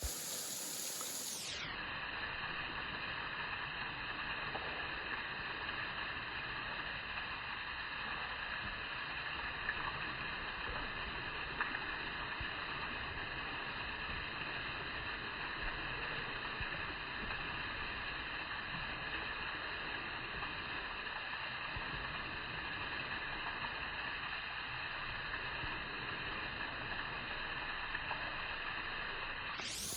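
Steady outdoor background noise, an even rushing hiss, with two faint ticks about ten and twelve seconds in.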